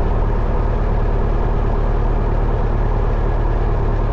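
A 1972 Cessna 172 Skyhawk's four-cylinder Lycoming O-320 engine and propeller idling steadily, waiting for takeoff.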